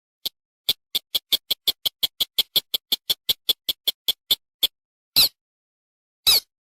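Recorded lure call of a paddy-field crake (sintar or mandar sawah): a fast series of short, sharp, high notes, about five a second, followed by two longer single notes, with dead silence between them.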